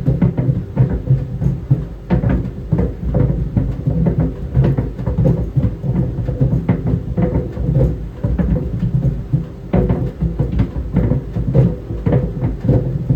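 Tennis balls tumbling in a clothes dryer drum, thudding against it irregularly a few times a second over the dryer's steady running hum.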